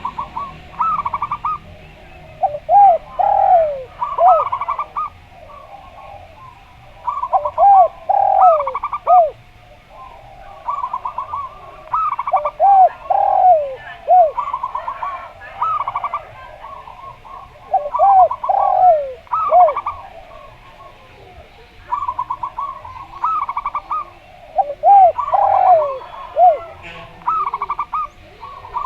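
A zebra dove (perkutut) and a derkuku turtle dove cooing in turn, a phrase every few seconds. The zebra dove gives quick stuttering runs of high coos, and the derkuku gives lower coos that swoop down in pitch.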